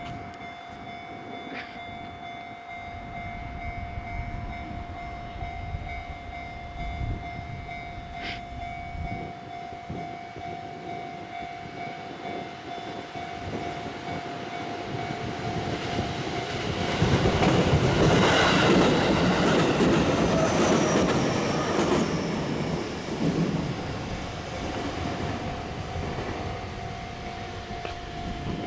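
JR Central 313 series electric train running in to a station, growing louder to a peak about two-thirds of the way through with rumbling wheels, a falling high whine as it slows, then easing off. A steady high tone runs underneath, drowned out while the train is loudest.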